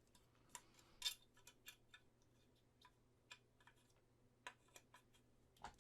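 Faint, irregular light clicks and taps of small hard objects being handled, about a dozen over several seconds, a few with a slight ring.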